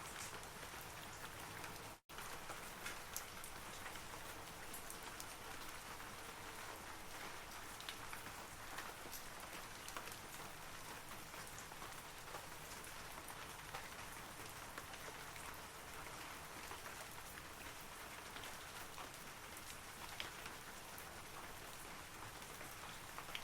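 Steady rain falling on forest trees, an even hiss with individual drops ticking through it. The sound cuts out for an instant about two seconds in.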